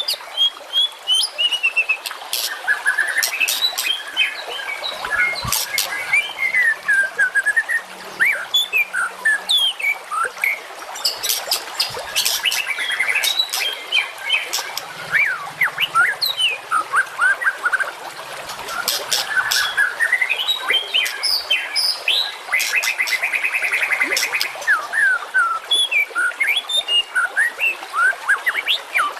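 Songbirds singing in a dense, continuous run of quick chirps, whistled notes and sharp high calls, the recorded song used as masteran training audio for competition birds. A fast buzzy trill comes about three-quarters of the way through.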